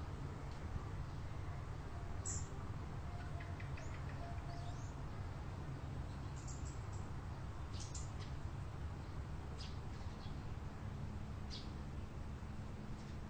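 Small birds chirping now and then, short high calls scattered through, over a steady low rumble.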